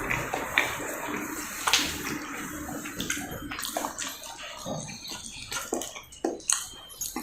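Close-up wet chewing and mouth sounds of someone eating roti with potato sabzi, with many small irregular clicks and smacks.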